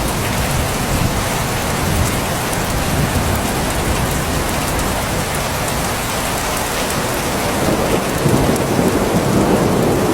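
Steady rain falling on a surface, with a low thunder rumble that swells in the last couple of seconds.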